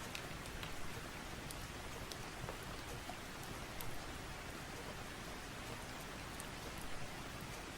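Steady rain, an even hiss with scattered sharp ticks of single drops.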